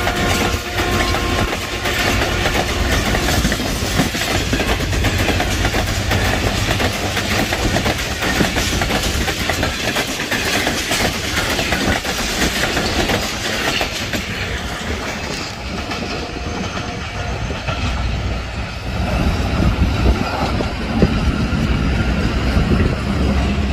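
Pakistan Railways train passing at speed close by: a steady rush with wheels clattering over rail joints, the horn dying away in the first second or two. About 15 s in, the high hiss thins and the sound settles to a lower rumble.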